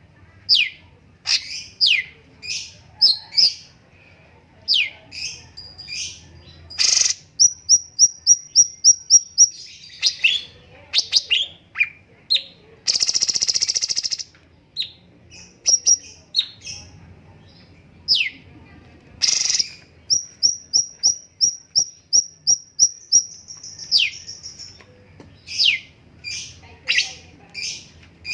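Cucak cungkok songbird singing: loud whistled notes that sweep sharply downward, broken by two fast trills of short repeated chips, about eight a second, and a harsh rasping burst lasting about a second roughly halfway through.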